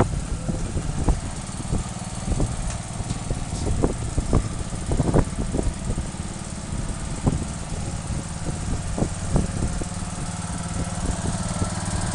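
Engine of a Craftsman 15.5 HP riding lawn mower running steadily, with scattered short clicks and knocks over the drone.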